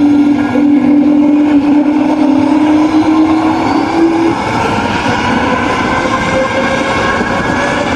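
Aircraft engines running loud and steady. A steady hum drops out about halfway through, and a whine rises slowly in pitch after it.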